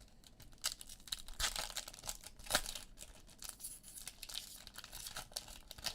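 Foil trading-card pack wrappers being torn open and crinkled, an irregular run of crackles and rips as Panini Select football packs are opened.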